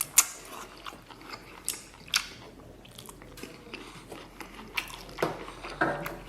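Close-miked eating of braised beef and rice: chewing and wet mouth noises, with scattered sharp clicks through it.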